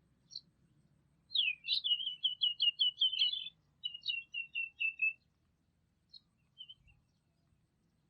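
A songbird singing: a quick run of about ten repeated high notes, then after a brief gap a shorter run of slightly lower notes that fall away, with a few single chirps before and after.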